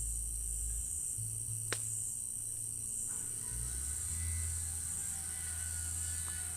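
Night chorus of crickets chirring steadily at a high pitch over a low, distant hum, with one sharp click about a second and a half in.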